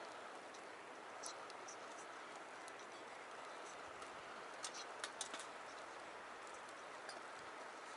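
Wood campfire crackling: scattered sharp pops and ticks, with a quick run of several pops about five seconds in, over a faint steady hiss.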